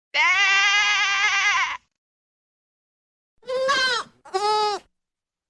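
Farm animal bleating: one long wavering call, then two shorter, higher-pitched bleats in quick succession about two seconds later.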